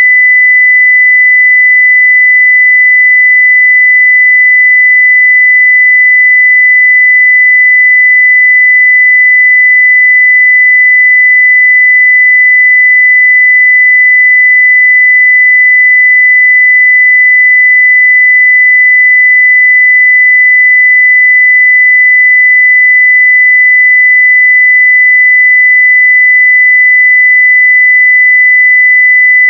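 A pure 2 kHz sine-wave test tone at full level, one steady pitch without any change.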